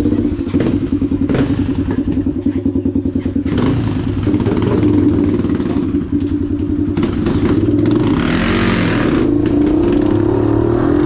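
Dirt bike engine running, pulsing rapidly for the first few seconds, then steadier. A short rush of noise comes about eight seconds in.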